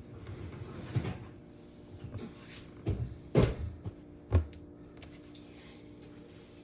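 Kitchen knocks and thumps as a pot roast goes back into the oven and the oven door is shut: four separate bumps, the loudest about three and a half seconds in.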